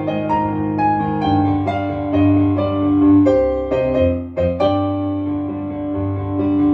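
Piano playing alone: an instrumental interlude between the sung verses of a Shōwa-era pop ballad, with held chords under a melody line.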